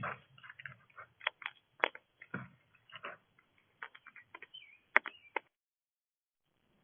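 Irregular clicks, taps and crackles from an animal feeding at a bird feeder close to the microphone, picking at and cracking seed. The sound stops abruptly about five and a half seconds in.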